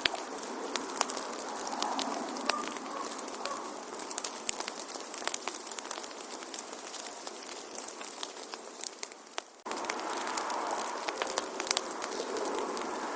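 Wood fire crackling in a fireplace: scattered sharp pops and snaps over a soft, steady hiss. About two-thirds of the way through, the sound fades down and then cuts back in suddenly at full level.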